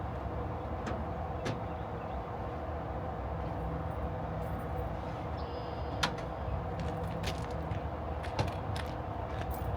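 A few light clicks and knocks of keys and a tarp padlock being unlocked, over a steady low engine rumble.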